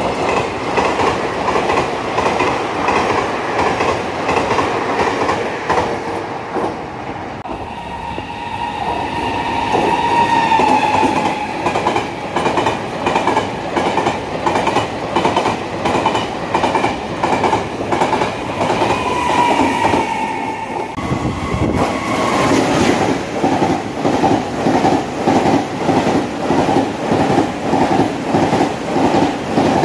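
Passenger trains passing at speed, their wheels clattering loudly and rhythmically over the rail joints' fishplates. A whine drifts in pitch through the middle stretch, and the clatter comes fast and even near the end as an express passes close.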